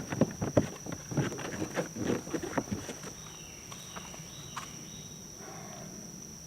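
Gear being stuffed into a touring kayak's day hatch: a quick run of knocks, bumps and rustles against the plastic hull for about three seconds, then it goes quieter.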